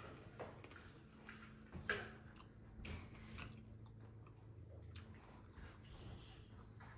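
Faint close-up chewing of prawns eaten by hand, with scattered soft clicks and smacks, the sharpest a little under two seconds in.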